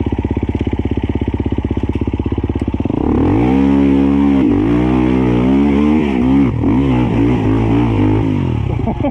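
Dirt bike engine idling steadily, then revved hard from about three seconds in, its pitch climbing and falling again and again before it settles back to idle near the end.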